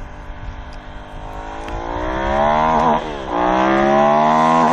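Motorcycle accelerating hard, its note rising steadily, dropping abruptly about three seconds in like a gear change, then climbing again.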